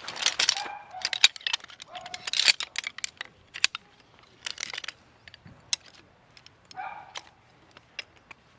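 Handling noise of gear being moved about: a run of sharp clicks and rustling, with a few short ringing metallic clinks.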